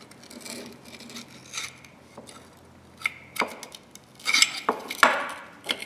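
Steel parts of rusty locking pliers clinking and scraping against tools as a part is worked loose, with scattered sharp clicks and clanks, loudest about four to five seconds in.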